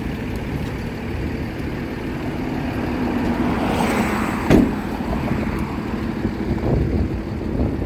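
Street traffic running past, the noise swelling as a vehicle goes by about four seconds in, with one sharp knock at its peak.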